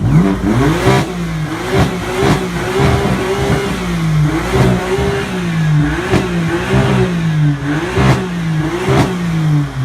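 Modified car engine revved hard over and over, the pitch rising and falling about once a second, with sharp cracks on several of the revs.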